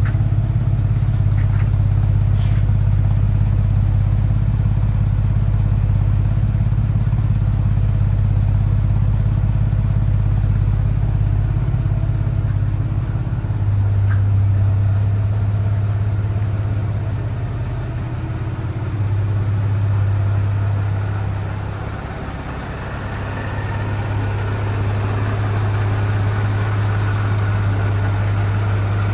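1948 Chevrolet Fleetline Aerosedan's 216 cubic inch inline-six engine idling steadily with a deep, even hum.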